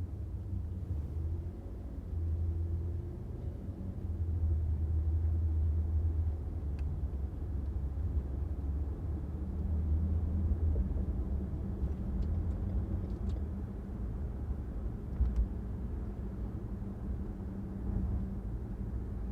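A car driving along a city street: a steady low rumble of engine and tyres on the road, swelling a little at times, with a few faint ticks.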